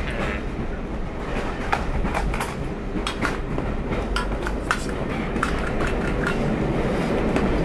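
Train running on the rails: a steady low rumble with irregular sharp clicks and knocks scattered through it.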